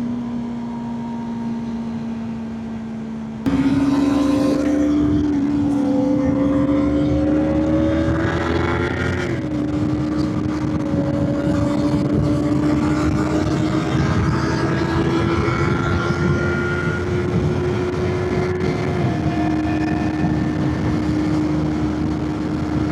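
Motorcycle engine under way from the rider's seat: a steady note that gets much louder about three and a half seconds in as the throttle opens, then rises slowly in pitch, dropping briefly at gear changes about nine and nineteen seconds in.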